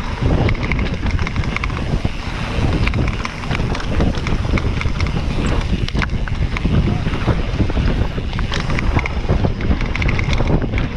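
Heavy wind buffeting on the microphone from riding a mountain bike fast downhill, with many short rattling clicks and knocks from the bike over rough trail.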